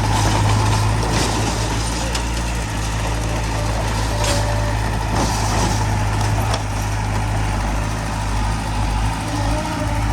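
Heavy diesel earthmoving machine's engine running steadily under load, with a strong low hum and several short clanks or knocks.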